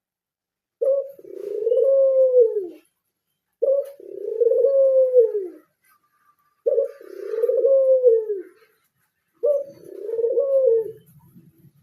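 Pied (blorok) Barbary dove cooing: four coos about three seconds apart, each a short note followed by a long rolling note that rises and then falls away.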